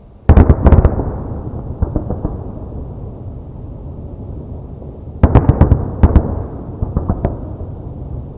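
Fireworks shells bursting: a rapid volley of loud bangs just after the start and another about five seconds in, with a few smaller cracks between and a low rolling rumble after each volley.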